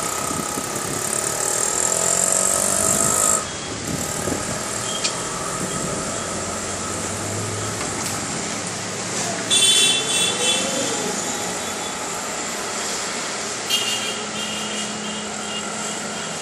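V8 engine running, revving with its pitch rising for about three seconds before dropping back abruptly, then carrying on steadily. Two short, shrill high sounds come partway through.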